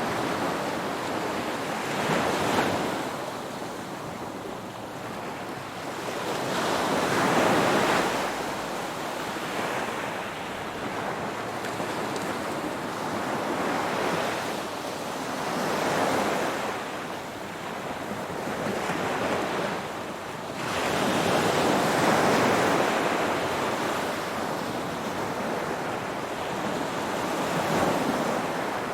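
Ocean waves breaking and washing ashore, the surf swelling and falling away every few seconds with a steady rush of water between the breakers.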